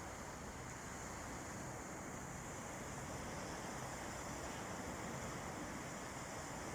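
Calm sea waves washing on a beach, a steady even hiss with wind.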